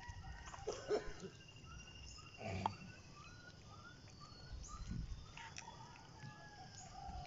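A bird calling faintly: a run of short rising chirps, about two or three a second, starting a couple of seconds in and stopping about six seconds in, over low rumbles of wind on the microphone.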